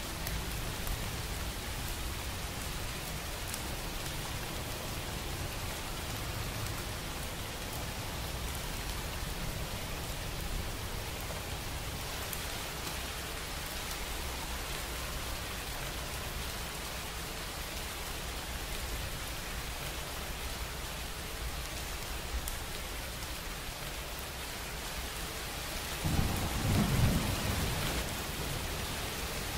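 Steady rain falling with low rumbling thunder underneath, and a louder rumble of thunder near the end.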